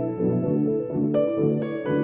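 Background music: soft piano-like keyboard notes in an even rhythm, with a change of chord about a second in.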